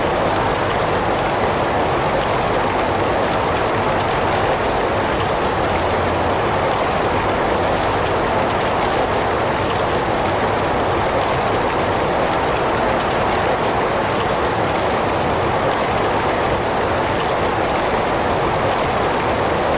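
Heavy rain falling in a steady, even downpour, with no breaks or changes in level.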